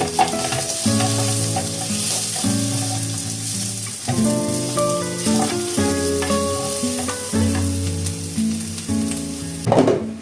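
Food frying and sizzling in a pan, over background acoustic guitar music; the sizzling cuts off abruptly near the end.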